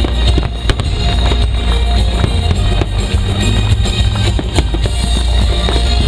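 Fireworks bursting and crackling over loud music with a heavy bass beat played through the show's sound system.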